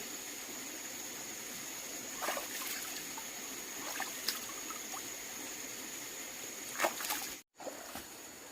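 Steady trickle of running water with a few light knocks, cut off suddenly about three-quarters of the way through.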